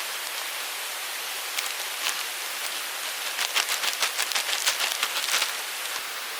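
Steady rushing of a mountain stream. About three seconds in, a run of quick, sharp crackling clicks lasts about two seconds.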